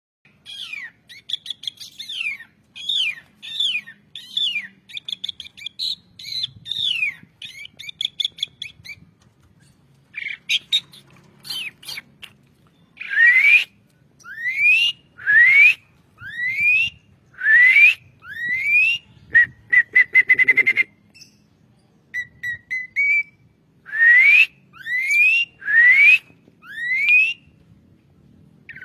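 Pied starling (jalak suren) singing: a run of quick, falling whistled notes, then a series of loud rising whistles about one a second, broken by a fast trill about twenty seconds in.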